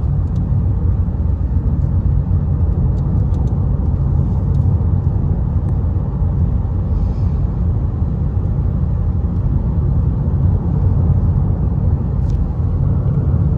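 Steady low rumble of a car driving on a highway, heard from inside the cabin.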